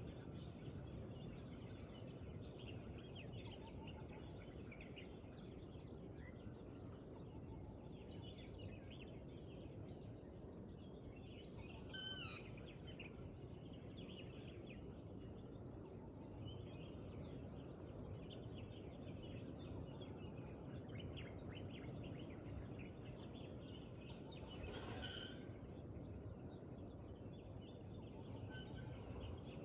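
Morning forest ambience: many small birds chirping and twittering over a low steady background hum, with a continuous high-pitched drone. A louder short bird call stands out about twelve seconds in, and another about twenty-five seconds in.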